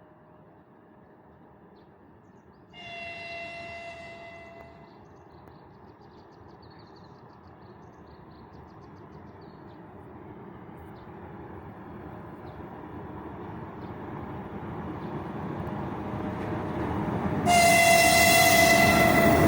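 Electric locomotive horn sounding twice, a two-second blast about three seconds in and a louder one near the end. Between them the rumble of the approaching 2ES5K 'Ermak' locomotive pair and its freight train grows steadily louder.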